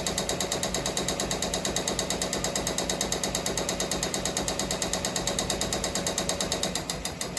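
Ricoma MT-1501 embroidery machine stitching at speed, a fast, even clatter of about a dozen stitches a second that eases off near the end. It runs with a loud smacking that the owner says has been there since day one, though it does not stop the machine or spoil the stitching.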